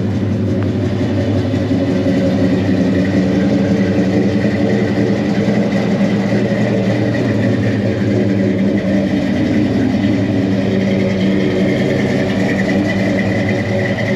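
Chevrolet C-10 pickup's engine idling steadily while it warms up.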